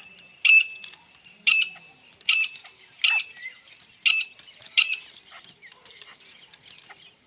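Partridge calling: a series of short, sharp, high-pitched calls about once a second, growing weaker after about five seconds.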